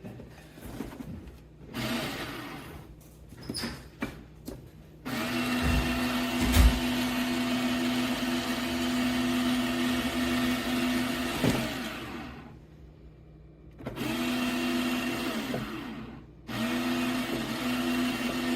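Fellow Opus conical burr grinder's electric motor running in three bursts: a long run of about seven seconds starting about five seconds in and winding down, then two shorter runs near the end, after some handling clicks and rustles. The stopping and restarting fits the fault the owner describes, the grinder starting up on its own while plugged in.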